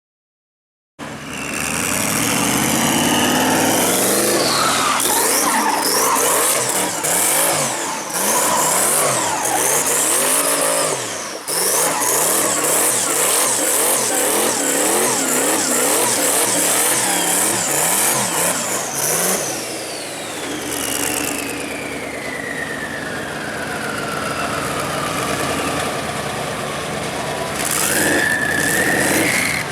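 BMW E46 with a swapped-in Mercedes-AMG M156 V8, revved hard again and again with tyres screeching under wheelspin. About two-thirds through it eases off into a long falling whine, then revs up again near the end.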